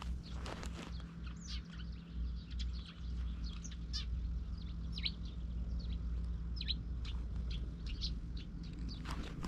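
Small birds chirping, many short quick calls scattered through, over a steady low rumble on the body-mounted camera's microphone.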